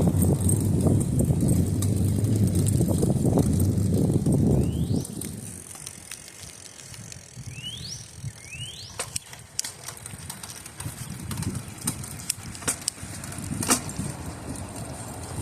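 Wind buffeting the microphone of a moving bicycle, which drops away about five seconds in, leaving the quieter sound of the ride with scattered light clicks and rattles. In the quieter stretch a bird gives three short rising chirps.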